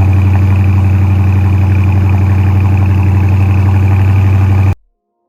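Dodge Challenger R/T's 5.7 L HEMI V8 idling steadily and loudly just after a cold start. It cuts off suddenly near the end.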